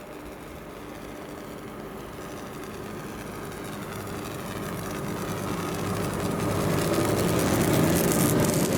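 Approaching train: the locomotive's steady hum with several fixed pitches grows steadily louder as it comes closer.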